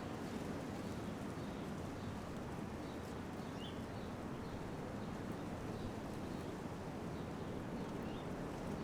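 Small birds giving short, faint chirps every second or so, two of them a little stronger about a third of the way in and near the end, over a steady low rumble of background noise.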